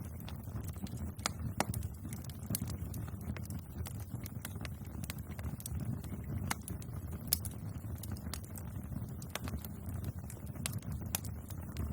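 Bonfire burning: irregular sharp crackles and pops from the burning wood over a steady low rumble of the flames.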